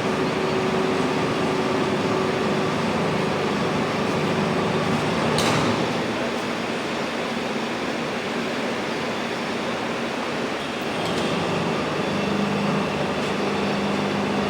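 Steady machinery noise from a 500 kg copper melting furnace installation, with a faint steady hum whose pitch shifts lower after about five seconds, and one sharp click about five and a half seconds in.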